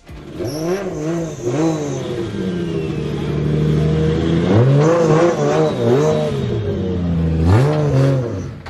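Modified drift car's engine revving hard, its pitch rising and falling again and again as the throttle is blipped, with a longer held rev in the middle.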